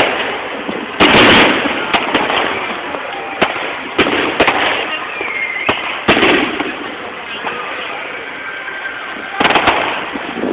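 New Year's Eve fireworks going off: a steady crackle of many small bangs, broken by several heavier bursts about a second in, near the middle and near the end.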